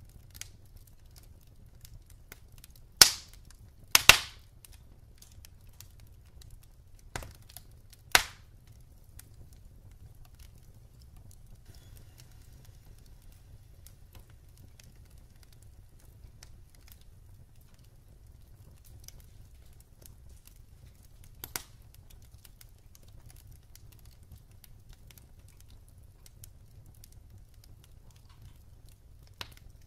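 Wood fire burning in a fireplace, crackling with a few sharp pops: a cluster of loud ones about three to eight seconds in, then a couple of lighter ones later, over a low steady rumble.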